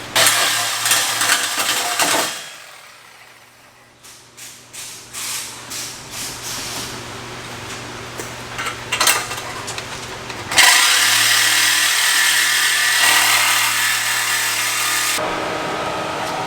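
Power tool cutting metal exhaust pipe: two runs of loud, steady cutting noise, one for about two seconds at the start and a longer one of about four and a half seconds starting about ten seconds in, with light knocks and handling sounds between them.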